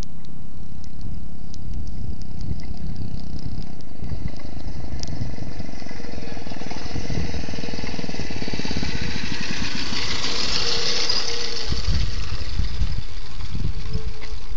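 Motovox mini bike's small engine running with a steady pulsing beat. It grows louder and brighter a little past the middle, then eases back.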